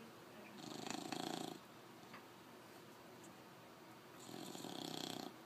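Bulldog snoring loudly: two snores, each lasting about a second, a few seconds apart.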